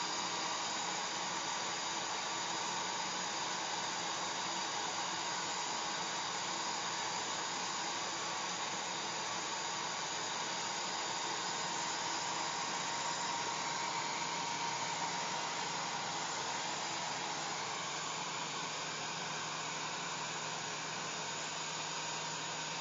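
Hair dryer running steadily: a constant airy rush with a faint whine from the fan motor.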